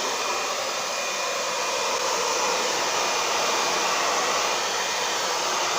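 Hair dryer blowing steadily, heating a freshly stuck sheet of bitumen sound-deadening on a metal window-sill flashing.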